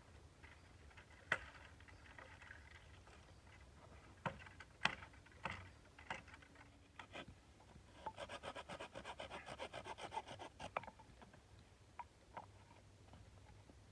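Pieces of firewood knocking together a few times, then about three seconds of quick, evenly repeated rasping strokes on wood, like a small saw cutting a branch.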